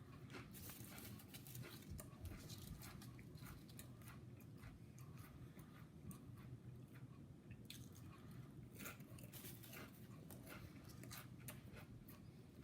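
Faint chewing and biting of food, with irregular small crunches and mouth clicks over a low steady hum.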